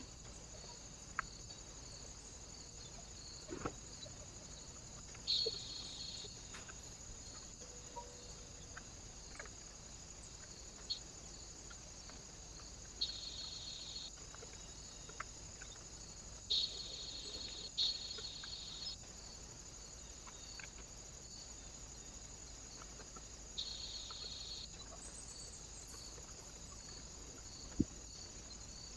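Small birds at a feeder: five short, high, buzzy calls of about a second each, with scattered light clicks and taps, over a steady high hiss.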